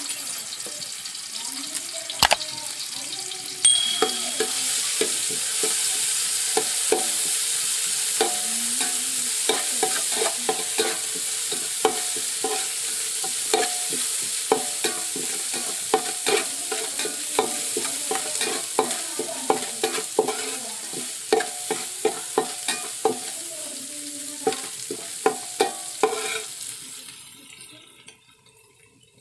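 Crushed ginger, green chilli and garlic sizzling in hot coconut oil while being sautéed, with a steel spoon scraping and knocking against the metal pot about twice a second, each knock ringing briefly. The sizzle grows louder a few seconds in and fades away near the end.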